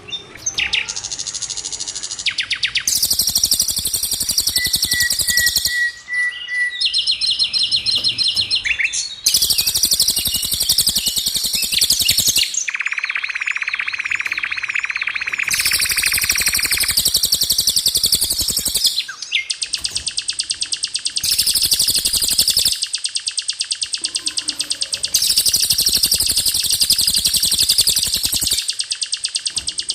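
Songbird masteran track of rolling trills and sharp 'shot' notes, used to train songbirds such as the murai batu. Blocks of fast, high, rapidly repeated notes a few seconds long start and stop abruptly one after another, with a lower, buzzier trill in the middle.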